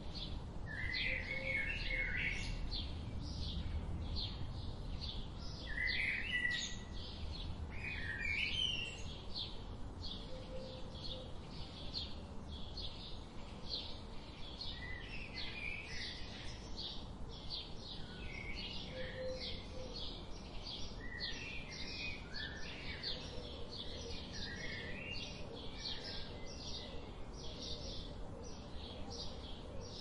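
Birds chirping and singing: a fast, regular series of short high chirps runs throughout, about three a second, with louder warbling phrases breaking in several times, over a steady low background noise.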